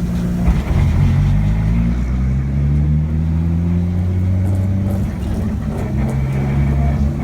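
Swapped single-turbo Toyota 2JZ straight-six in a BMW 3 Series running at low revs with a deep, steady rumble; the pitch rises slightly about a second in and drops back about five seconds in.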